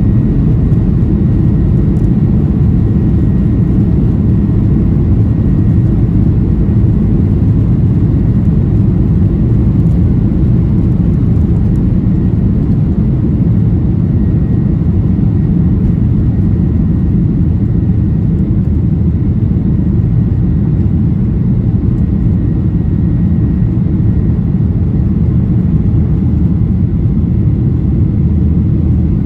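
Boeing 737-800's CFM56-7B jet engines and airflow heard inside the passenger cabin as a loud, steady rumble, with a faint steady high tone above it.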